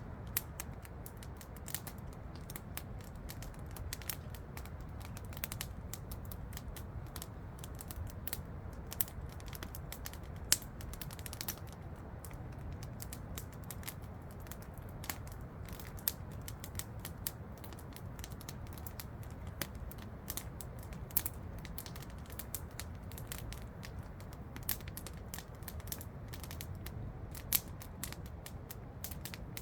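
Campfire crackling, with irregular wood snaps and a few louder pops, over a steady low rush of falling water from a waterfall.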